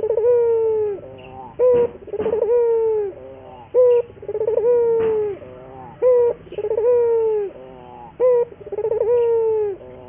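Ringneck (Barbary) dove cooing repeatedly in a persistent, 'gacor' run. Each phrase, about every two seconds, is a short note, a quick stuttering roll and a long coo that drops in pitch at the end.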